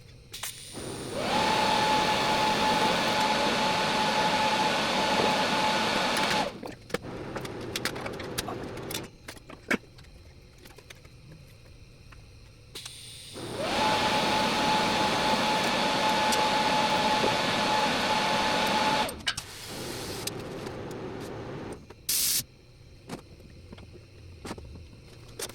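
TIG welding arc on thin-gauge stainless steel: two welds of about five seconds each, a steady hiss with a steady tone, starting and stopping abruptly. Quieter hiss and small clicks fill the gaps between the welds.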